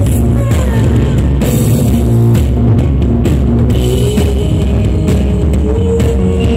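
Live rock band playing loud: distorted guitar and bass over a drum kit with frequent cymbal hits, recorded from the crowd.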